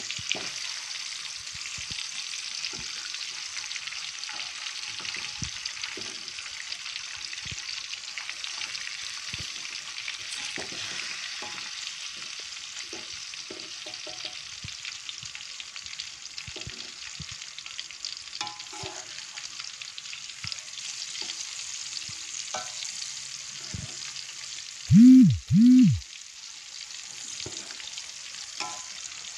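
Banana pieces deep-frying in hot oil in a wok: a steady sizzle, with scattered clinks and scrapes of a spatula turning them against the pan. Near the end come two short, loud tones in quick succession, each rising and falling in pitch.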